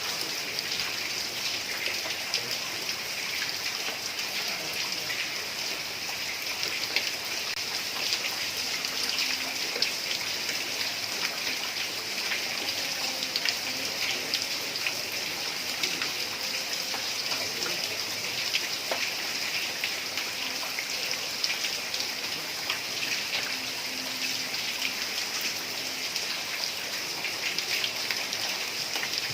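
Heavy rain falling on a tiled roof: a steady, dense hiss with many small drops ticking through it.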